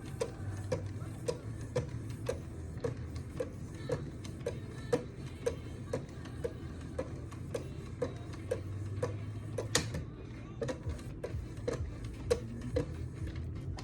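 Sharpening stones on a Wicked Edge guided sharpener's arms stroking a knife blade, with a regular click about twice a second and one sharper, louder click about ten seconds in.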